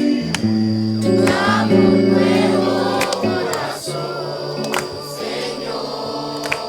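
Christian worship music: a choir singing over long held chords.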